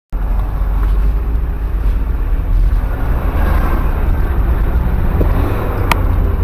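Vehicle on the move: a steady, loud low rumble of engine and road noise that cuts in abruptly, with a short sharp click near the end.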